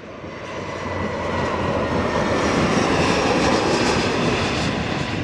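Airliner's jet engines passing close by: an even roar that swells over the first couple of seconds, holds, then begins to fade near the end.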